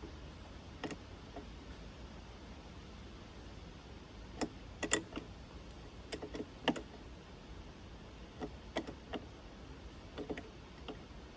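Irregular light clicks and clinks of hand tools and metal parts being handled, coming in small clusters.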